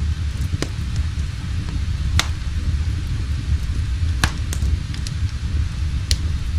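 Wood fire burning in a fireplace: a steady low rumble with sharp crackles and pops every second or so.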